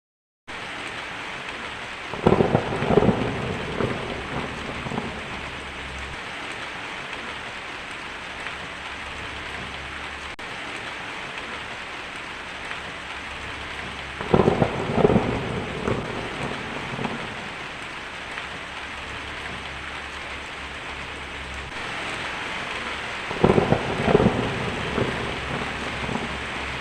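Steady heavy rain with three peals of thunder rumbling a few seconds each, about two, fourteen and twenty-three seconds in. The thunder peals are the loudest sounds.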